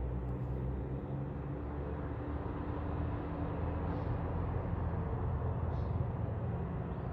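A steady low engine drone with a few held low hums, running without a break.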